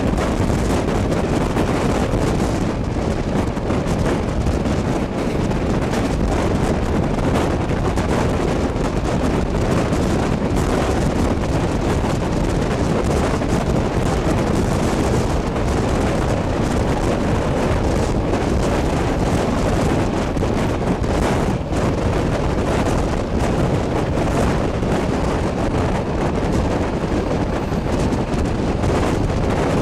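Steady wind rush buffeting the microphone at the open window of a moving passenger train, mixed with the continuous rumble of the carriage running along the track.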